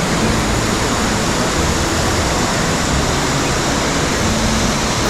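Water pouring steadily from a large indoor fountain, an even rushing noise.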